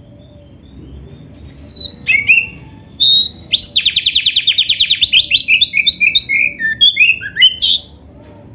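Oriental magpie-robin (kacer) singing: a couple of short whistled phrases, then from about three seconds in a loud, fast trill of about ten repeated notes a second, running into varied sliding whistled notes that stop near the end.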